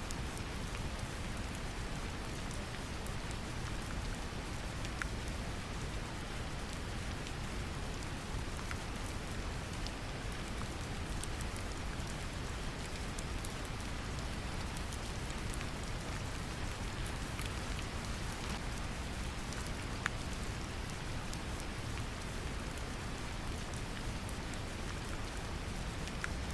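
Steady brown noise, a deep even rumble, mixed with gentle rain pattering, with scattered individual drop ticks.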